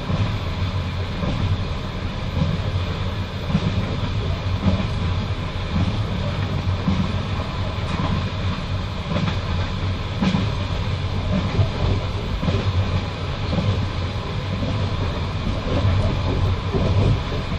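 Passenger train in motion, heard from inside the carriage: a steady low rumble of the running gear with the clack of wheels over rail joints coming through at uneven intervals.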